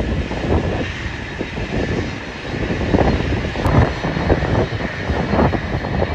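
Airliner engines running at the airport, a steady noise, with strong wind buffeting the microphone in irregular gusts.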